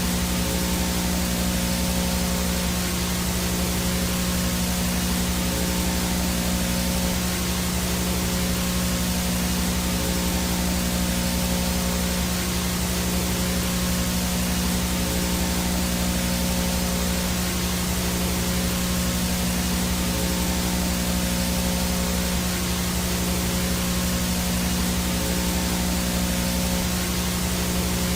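Static from a VHS tape with no signal: a steady, even hiss with a low electrical hum underneath, unchanging throughout.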